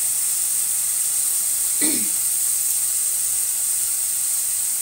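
Sliced winged beans sizzling in a hot wok, a steady high hiss of frying. About two seconds in, a short pitched sound cuts in briefly.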